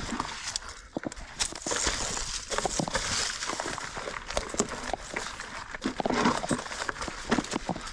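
Mountain bike rolling over rocky singletrack: tyres crunching on stones and the bike rattling, with a dense, irregular run of knocks and clatters.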